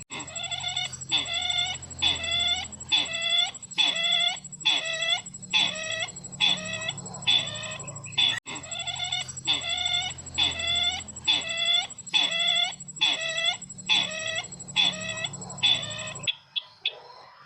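Lure recording of the call of the sisintar ladang, a bird used in trapping, played back: short chattering calls repeated about two a second, over a faint steady high whine and hum from the playback. A sharp click about halfway through, and the recording cuts off abruptly near the end.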